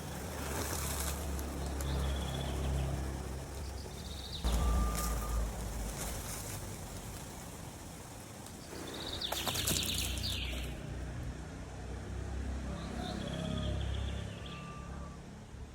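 Outdoor ambience: birds call and chirp now and then, with short whistles and one falling call about ten seconds in, over a low steady rumble whose character changes abruptly twice.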